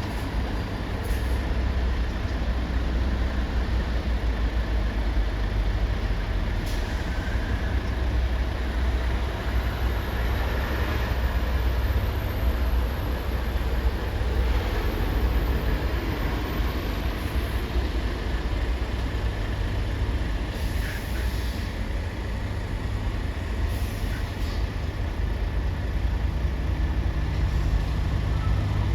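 Steady low rumble of heavy engines running, with a few brief hisses and clicks.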